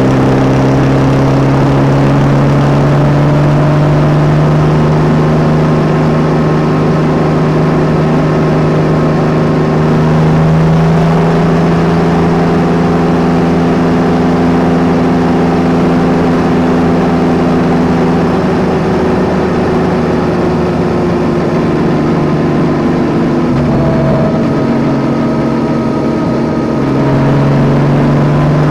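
Yamaha Tracer 9 GT's inline three-cylinder engine running at moderate, fairly steady revs. Its pitch eases gently up and down, dips about two-thirds of the way through, and picks up again near the end.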